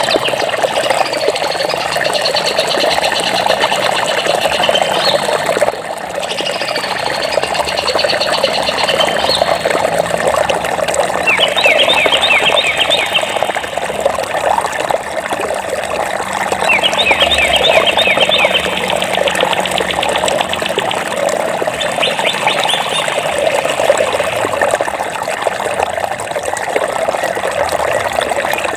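Steadily rushing flowing water, with birds chirping over it in repeated high phrases and rapid trills.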